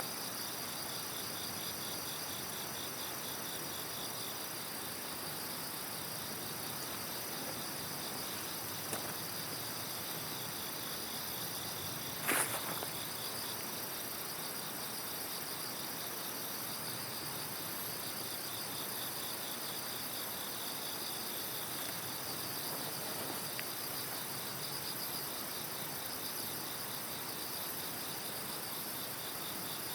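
Insects chirping steadily in fast, even pulses over a low hiss, with one sharp crack about twelve seconds in.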